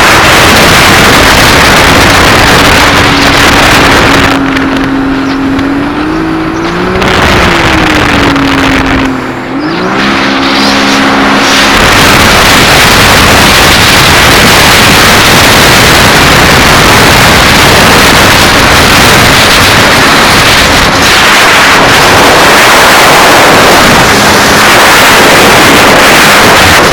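Sea-Doo jet ski running at speed, its engine tone nearly buried under loud wind buffeting the microphone and water rush. A few seconds in, the wind drops and the engine pitch rises, falls, dips sharply and climbs again as the throttle is worked, before the loud rush returns.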